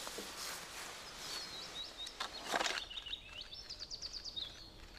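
A songbird singing a phrase of high chirps that ends in a quick trill, over quiet outdoor background noise, with two short rustles about halfway through.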